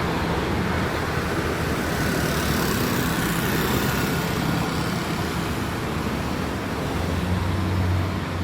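City street traffic on wet roads: a steady wash of road noise from passing vehicles, with an engine's low drone that grows louder about seven seconds in.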